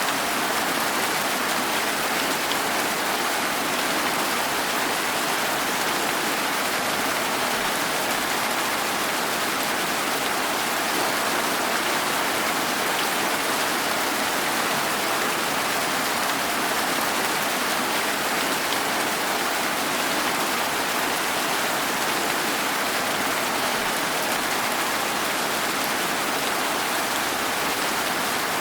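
Steady rain falling, an even hiss that holds level throughout, with the odd faint drop tick.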